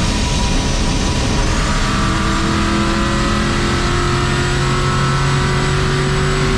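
Turbocharged engine of a 1951 Chevy race truck pulling hard under acceleration, its pitch rising steadily from about two seconds in, over a constant rush of noise.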